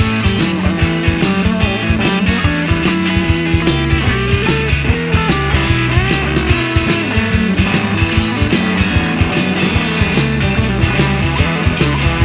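Blues-rock band playing an instrumental passage: electric guitar with bending notes over bass and a steady drum beat.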